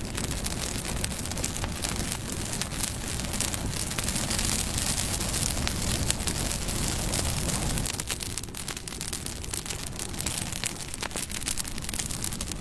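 Bonfire burning: a steady rush of flames with frequent sharp crackles and pops, swelling a little louder for a few seconds in the middle.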